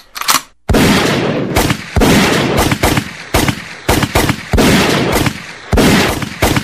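A rapid series of about a dozen loud, sharp bangs, each trailing off in a long echoing decay, fading out near the end.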